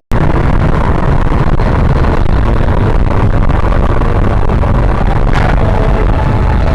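Car on the move: steady engine and road noise with a heavy low rumble, starting abruptly.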